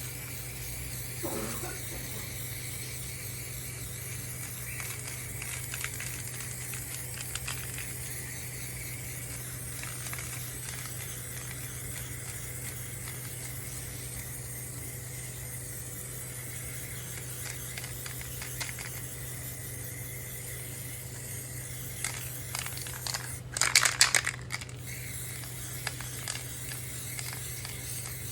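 Aerosol spray paint being applied to a metal stove: faint spraying and handling noises over a steady low hum, with a louder rattling burst near the end.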